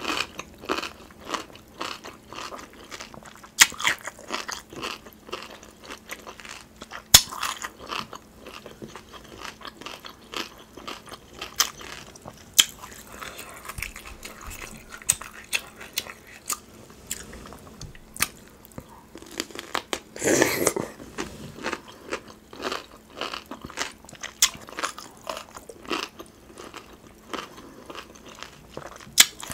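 Close-miked eating: crunchy bites and chewing of fresh cucumber spears dipped in sauce, with many short wet mouth clicks and smacks. One longer, louder mouth sound comes about twenty seconds in.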